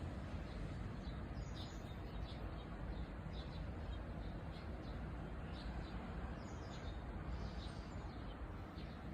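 Small birds chirping, short high calls repeated irregularly throughout, over a steady low outdoor rumble.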